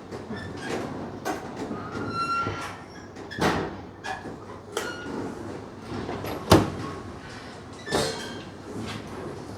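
Irregular knocks and clunks of hands-on work, with a short squeak about two seconds in and the loudest knock about six and a half seconds in.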